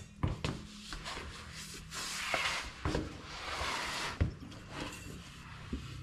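A new shock absorber and its mounting hardware being handled: scattered clicks and light knocks, with two short stretches of rustling in the middle.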